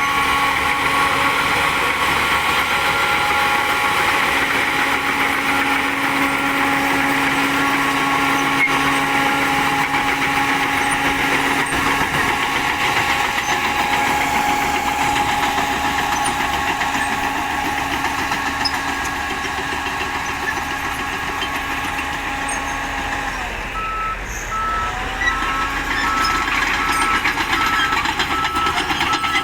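Diesel engine of a Shantui DH10B2 mini bulldozer running steadily; late on, the engine note sags briefly and then picks back up.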